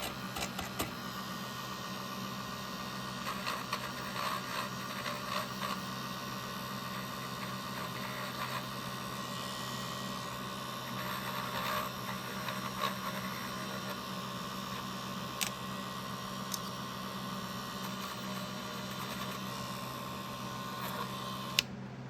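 Light scraping and small clicks of cleaning corrosion off an MSD distributor rotor, over a steady hum. A sharp click near the end, when a steady tone cuts off suddenly.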